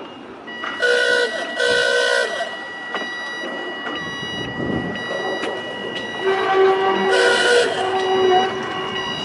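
Volks Electric Railway car sounding its horn: two short toots about a second in, then a longer horn sounding near the end, over a steady high electric whine.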